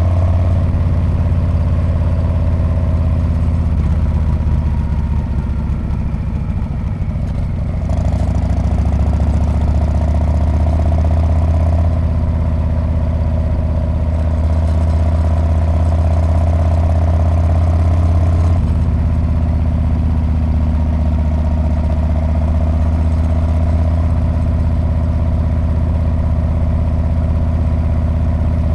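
Harley-Davidson Street Bob's V-twin running through its exhaust under way. The engine note eases off for a few seconds, picks up again about eight seconds in, and changes pitch once more near the middle.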